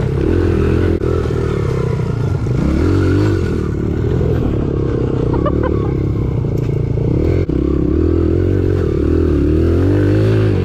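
Four-stroke dirt bike engine running while being ridden, its pitch rising and falling again and again as the throttle is opened and closed. A couple of sharp knocks come through, about a second in and again past the middle.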